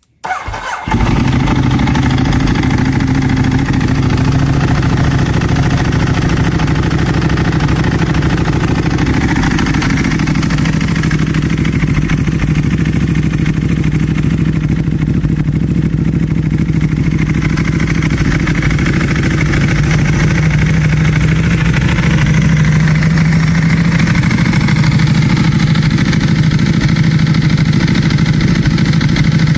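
2010 Ducati Streetfighter 1098S's 1099 cc L-twin engine, breathing through an Austin Racing aftermarket exhaust, cranks briefly on the starter and catches within about a second. It then idles with a loud, steady exhaust note.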